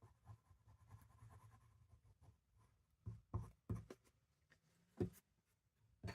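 Faint rubbing of paper being handled and pressed down on a craft table, with a few short soft knocks about three seconds in and a sharper one near five seconds.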